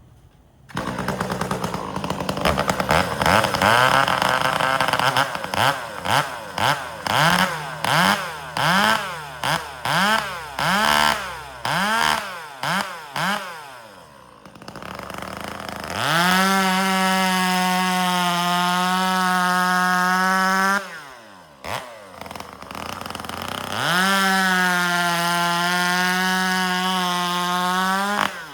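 Two-stroke chainsaw starting up about a second in, then revved in a series of short throttle blips about one a second. Later it is held at steady full throttle twice, for about five and four seconds, dropping back between and cutting off near the end.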